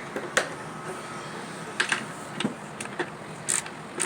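Ratchet wrench clicking in short strokes as it tightens a skateboard truck's kingpin nut, a handful of separate sharp clicks a fraction of a second to a second apart.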